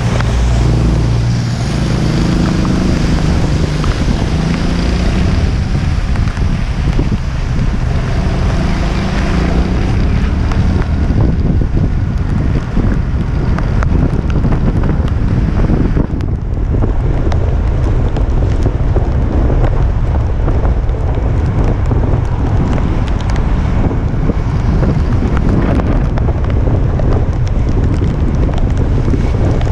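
Strong typhoon wind buffeting the microphone in gusts, a loud, low rumbling that rises and falls.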